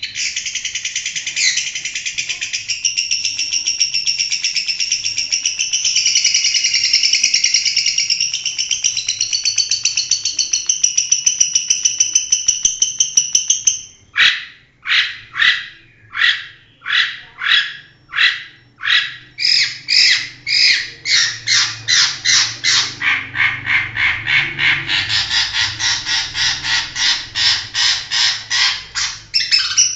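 Long-tailed shrike singing: a continuous rapid, high-pitched chattering warble for about fourteen seconds, then a run of separate sharp repeated notes, about two a second at first and quickening to about four a second.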